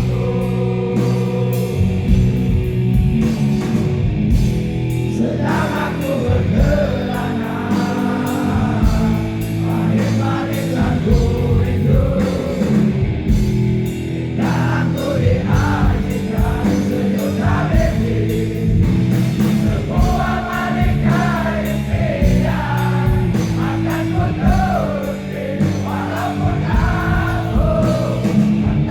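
Rock band playing live with a singer: loud, steady band music and sung vocals.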